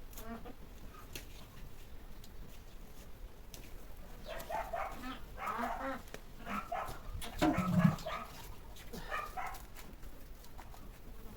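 A dog barking in a run of short barks from about four seconds in, with one louder low thump among them.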